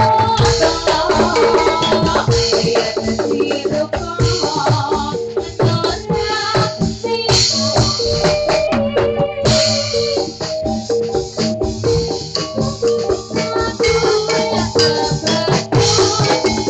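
Javanese gamelan playing jathilan music over a sound system during a sound check: kendang drum strokes under repeating metallophone notes and a steady high cymbal shimmer.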